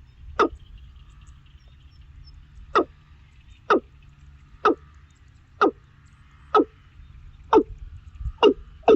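A bird giving a series of short, sharp calls, each dropping in pitch, about one a second and coming faster near the end, over a low rumble of wind or handling noise.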